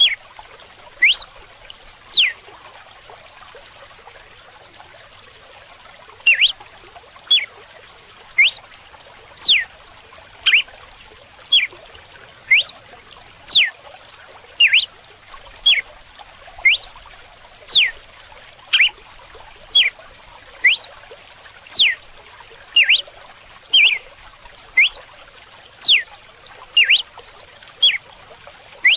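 Red-cowled cardinal singing its 'açoite' (whip) song: short, sharp whistled notes, mostly quick falling sweeps, repeated about once a second after a pause of a few seconds near the start. A steady trickle of running water goes on underneath.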